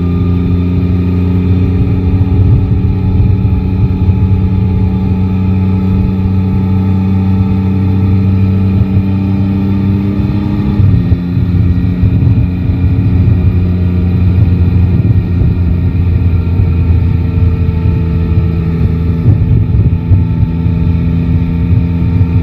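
Yamaha Tracer 9 GT's three-cylinder engine pulling steadily with its pitch slowly rising, dropping suddenly about halfway through at a gear change, then climbing slowly again.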